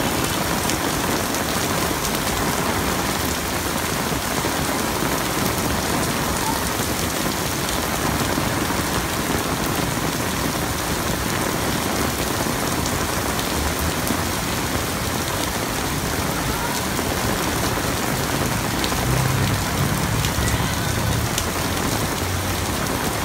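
Steady rain falling on wet pavement, with a brief low rumble near the end.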